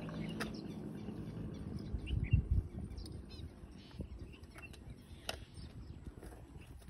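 Faint outdoor bird chirps, short high calls a couple of seconds in, over a low rumble with a few soft thumps and clicks.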